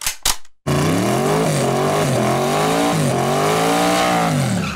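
Two short sharp bangs, then a car engine accelerating hard: its pitch climbs, drops back twice at gear changes, and falls away near the end.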